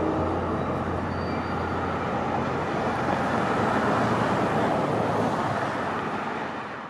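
A passing train rumbling steadily on the rails, with a low hum underneath; the horn's last note cuts off right at the start. The sound fades out near the end.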